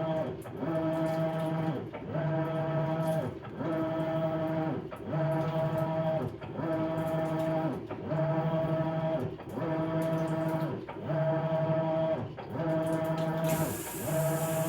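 Maytag Bravos XL top-load washing machine agitating a load of bedding: the motor hums through a stroke of about a second, winds down and starts the next, about every second and a half, in a steady rhythm. A hiss joins in near the end.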